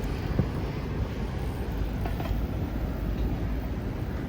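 Steady low outdoor rumble of a seafront walk, with one short knock about half a second in.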